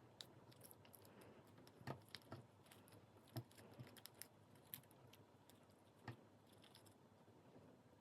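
A few faint, sharp clicks and taps of small repair tools against a phone's internals, as the hinge flex cable is worked free. Otherwise near silence.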